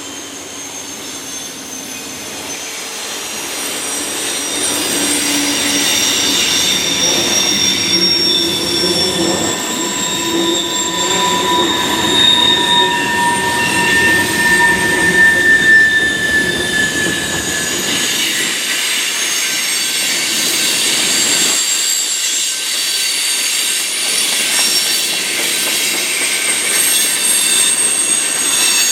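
Freight train cars rolling past with the wheels squealing on the rail: several high, thin squealing tones that drift in pitch over a steady rumble, getting louder over the first few seconds and then holding.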